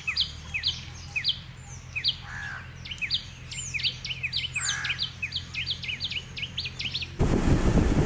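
Bird calling in a quick run of short, high, downward-sweeping chirps, a few each second. About seven seconds in it cuts off suddenly to louder wind noise on the microphone.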